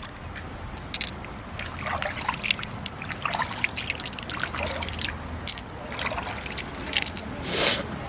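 Wet handling noises: irregular clicks and crackles with water trickling and dribbling, typical of a pearl mussel's shell and flesh being worked open over water. A louder wet burst comes near the end.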